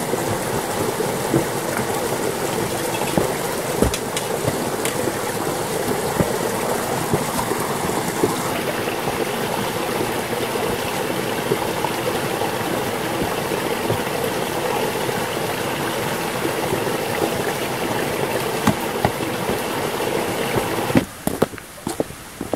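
Steady rushing of flowing stream water, with a few faint clicks over it. Near the end it stops abruptly, leaving a quieter background with a few sharp knocks.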